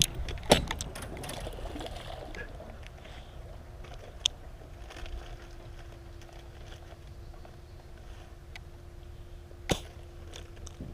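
Three sharp knocks: about half a second in, about four seconds in, and near the end. Under them is a low steady rumble, and a faint steady hum comes in a few seconds in.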